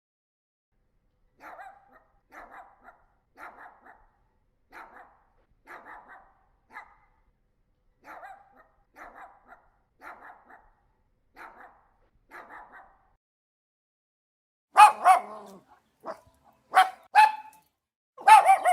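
Dog barking: a run of fainter barks about one a second, then after a short gap louder, sharper barks that come in quick pairs and bunches near the end.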